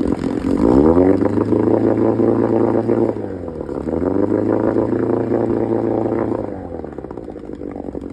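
1964 Johnson 9.5 hp two-stroke outboard motor revved twice: engine speed rises, holds for a couple of seconds, dips briefly, rises and holds again, then drops back to idle near the end.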